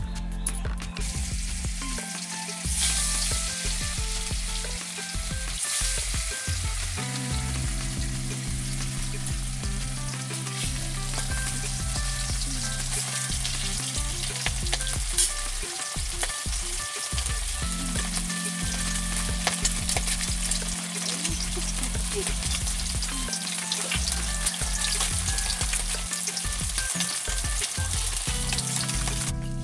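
Battered vegetable slices sizzling and crackling as they fry in hot oil in a metal kadai. Background music plays underneath.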